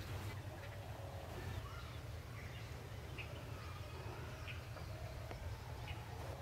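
Scattered faint bird chirps and short calls over a steady low rumble.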